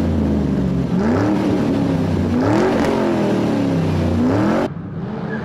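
Car engine revving for a race, climbing and falling in pitch several times. It cuts off abruptly near the end, giving way to a quieter engine sound.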